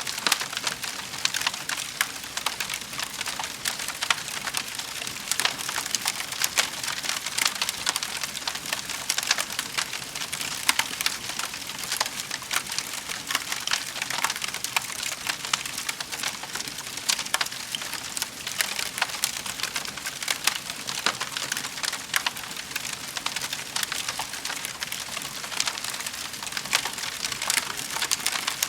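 Wood fire in a fireplace crackling: a dense run of small sharp snaps and pops over a steady hiss.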